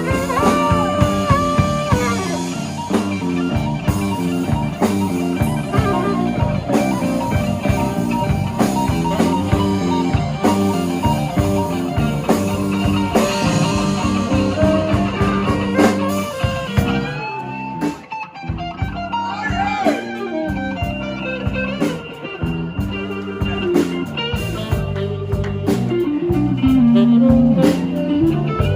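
Live blues band playing an instrumental passage of a slow blues, with guitar leading over bass and drums.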